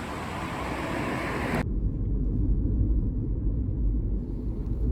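A steady rushing noise cuts off suddenly about one and a half seconds in. It gives way to the low, steady road rumble of a car driving, heard from inside the cabin.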